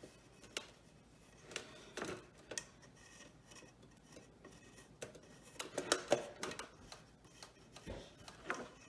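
Scattered light rubbing, scraping and tapping of hands working on a craft piece, with a busier run of handling noises around six seconds in.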